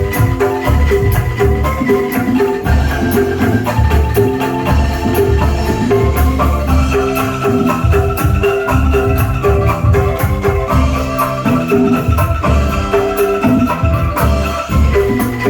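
An angklung ensemble playing a lively rhythmic piece through a sound system: quick, repeating bamboo notes over heavy bass notes that come in regular blocks.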